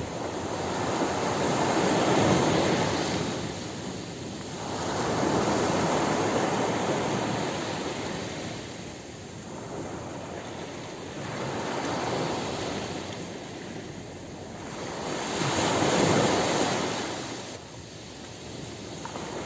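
Ocean surf breaking on a beach: waves wash in and draw back, swelling and fading every few seconds.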